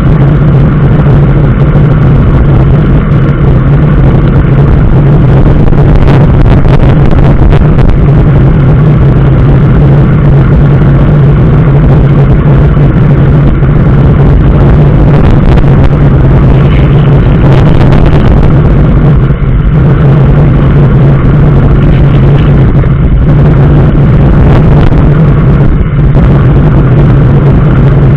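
A vehicle travelling steadily on the road: a constant low engine drone under loud, continuous road and wind noise.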